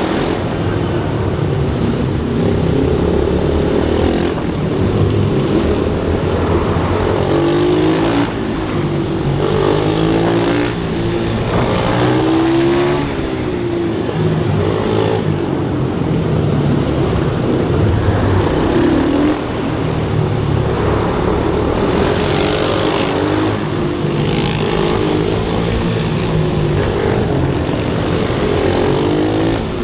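Small pit bike engines running on a track, revving up and dropping back again and again, with several engines overlapping at different pitches.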